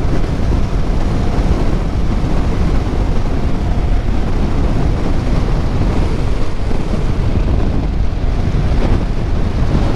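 Steady wind rush over the microphone of a motorcycle rider at speed, with engine and road noise mixed into a constant low rumble.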